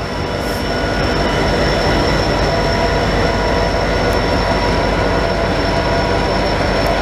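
CN diesel freight train passing close by at low speed: locomotive engines and wheels rolling on the rails. Steady high-pitched tones ring over the rumble, which grows louder over the first second and then holds steady.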